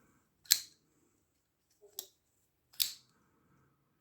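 Folding knife's blade being snapped open and shut on its ball-bearing pivot, working it after grit got into the bearing: three sharp clicks, the middle one faint.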